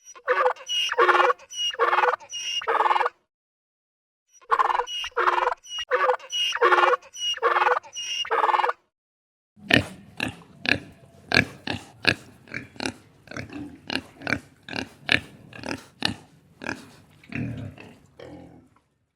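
An animal calling in repeated series of short calls: two runs of five or six calls with a pause between them, then a longer, faster run of deeper calls that fades near the end.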